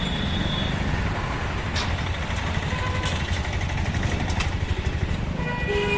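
Street traffic heard from a moving motorbike: a steady engine and road rumble, with vehicle horns honking briefly just after the start and again near the end.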